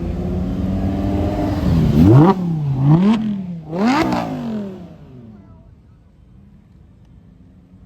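A car's engine pulling away hard: steady running at first, then three sharp climbs in pitch, each broken off by a quick drop as it shifts up, before the sound fades away as the car drives off.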